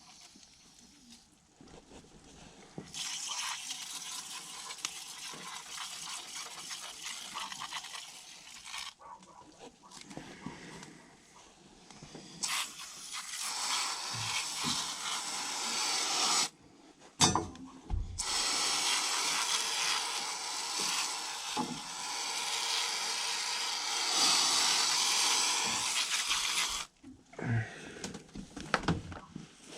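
Water spraying onto a dirty air-conditioner coil to clean it, in three long bursts of steady hiss with short pauses between, the longest near the end.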